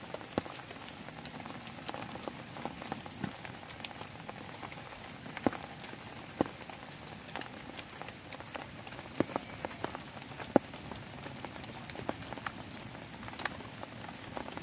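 Rain pattering and dripping onto a plastic tarp shelter, with scattered sharper taps of single drops. A steady high insect chirr runs underneath.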